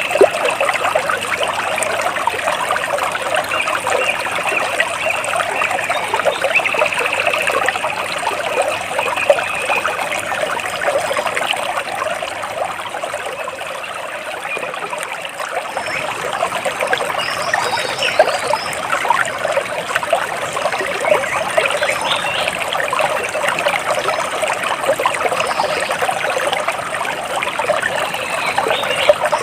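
Water trickling and splashing without a break, a dense patter of small droplets, dipping a little in the middle. Faint bird chirps come through now and then.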